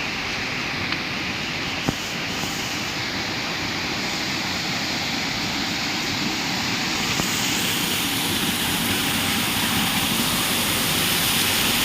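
Waterfall water rushing in a steady roar of white noise, slowly growing louder toward the end.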